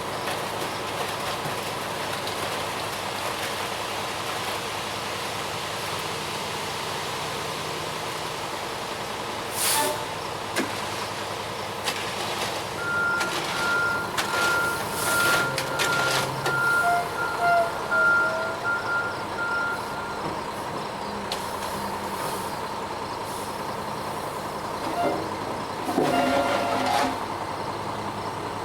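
Front-discharge ready-mix concrete truck running steadily. Midway its backup alarm beeps about once a second for several seconds, and a few short hissing bursts sound, the loudest near the end.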